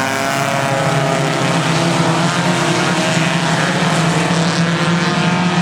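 Four-cylinder Stock 4 race car engines running hard at a steady, high pitch during an oval-track race.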